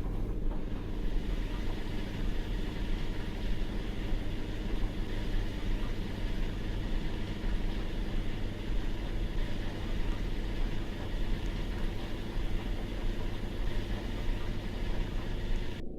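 Washing machine running: a steady motor hum and drum rumble that cuts off suddenly at the end.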